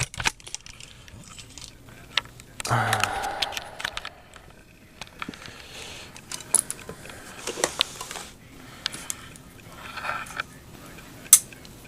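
Small plastic and metal parts of a clock radio being handled and worked apart by hand: scattered clicks, taps and light scrapes.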